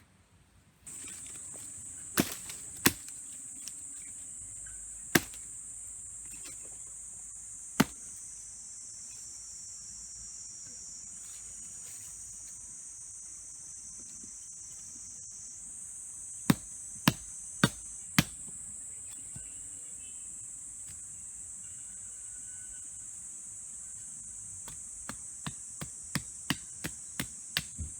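A steady, high-pitched chorus of insects, with loud, sharp knocks of something being struck, single ones at first, then four in quick succession, then a faster run of lighter knocks near the end.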